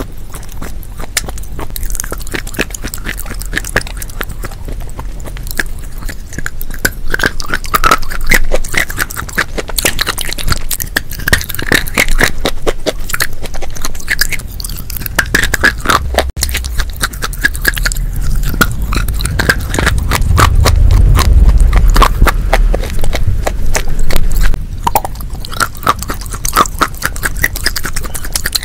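Close-miked mouth biting and chewing a soft, wet paste, with dense sticky clicking throughout. A low rumble sits under it from about two-thirds of the way in.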